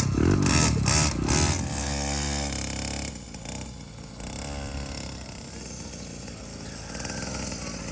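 LENKA 50cc mini motocross bike engine running, loudest in the first few seconds, then dropping to a quieter, steady running sound about three seconds in.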